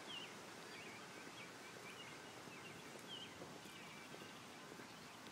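Faint outdoor ambience with birds chirping: a string of short, high chirps through the first three seconds or so over a steady hiss.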